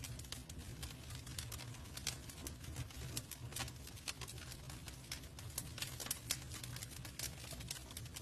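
Campfire burning: dense, irregular crackles and small pops of the wood over a low, steady rumble.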